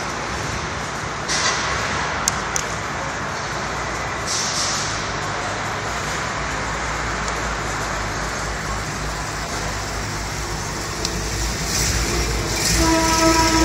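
1964 Chevrolet Impala SS convertible lowrider rolling slowly, its engine running low and steady. A steady pitched tone joins in near the end.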